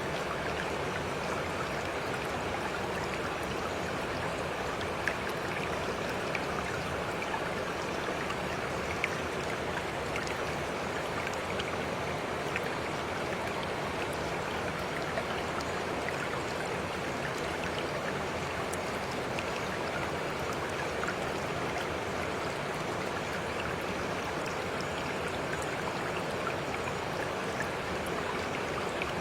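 Steady rush of running stream water, with a few faint scattered drip-like ticks.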